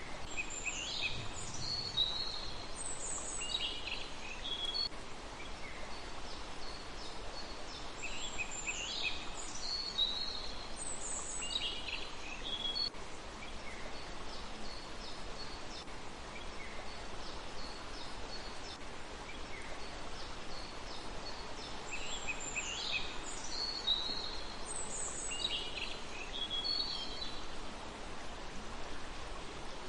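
A small songbird singing bursts of high, quick chirps and short trills in three main phrases several seconds apart, with fainter notes between, over a steady background hiss.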